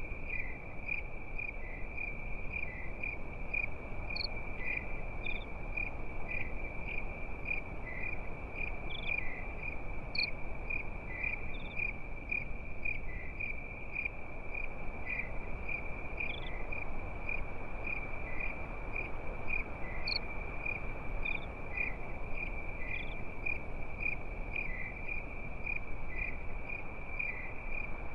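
Crickets chirping in a steady, regular pulse over an even background hiss, with a few faint higher ticks scattered through.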